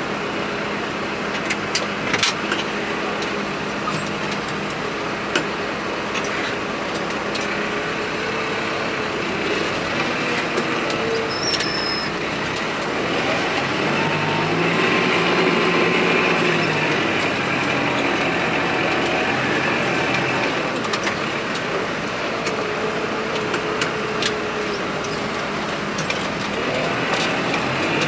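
Diesel engine running steadily, revving up for a few seconds about halfway through and settling again, with a few sharp clicks and knocks over it.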